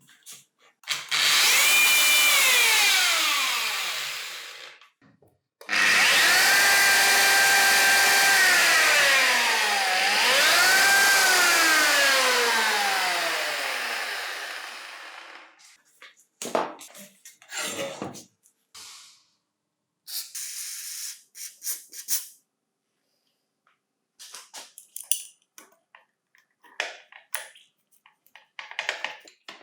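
Electric power tool motor switched on twice. Each time it runs at a steady whine and then winds down with a slowly falling pitch; on the second run it is briefly sped back up before coasting down. A few short clicks and knocks of tools being handled follow.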